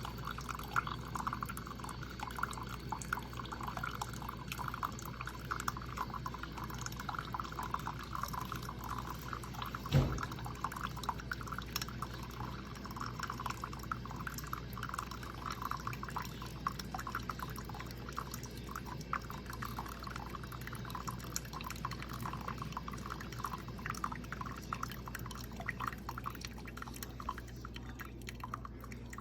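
Instant Solo single-serve coffee maker brewing: a steady stream of coffee pours and drips into the cup over a low hum from the machine, with a single knock about ten seconds in.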